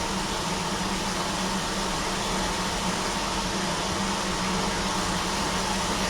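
Steady hiss with a low hum underneath, like a fan or air-conditioning unit running, with no change in level.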